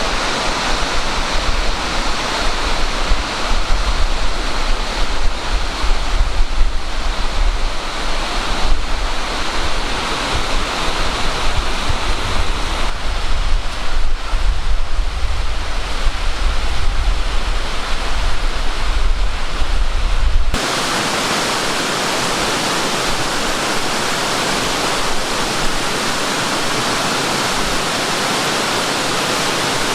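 Amicalola Falls, a tall cascading waterfall, rushing steadily. For the first two-thirds, wind gusts buffet the microphone with a low rumble. About 20 seconds in it switches abruptly to an even rush of falling water without the wind.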